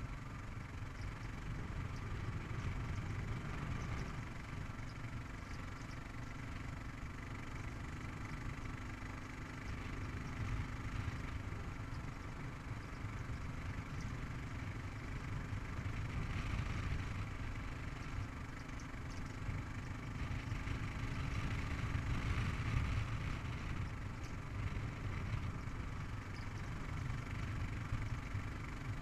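Kawasaki KLR 650's single-cylinder engine running steadily while the motorcycle cruises along a paved road. The engine holds an even note with only small swells in level.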